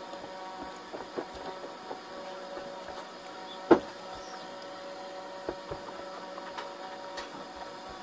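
Close-up mukbang eating sounds: soft chewing and scattered mouth clicks and smacks while eating rice and dried fish by hand, with one sharper click a little under four seconds in. A steady electrical hum runs underneath.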